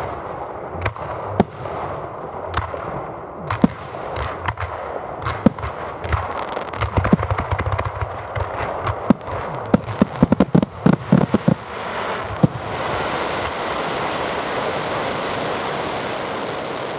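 Fireworks display: sharp single bangs of shells bursting, building to a dense rapid volley of bangs about halfway in. Then comes a steady rushing noise with no more bangs.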